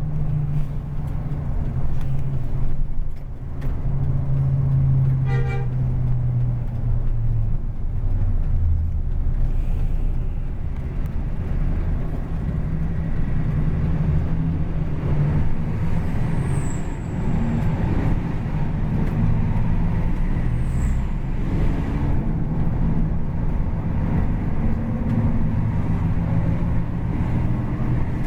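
Bus engine running under way through its racing exhaust, a steady deep rumble that rises and falls a little in pitch. A short tooting tone sounds about five seconds in.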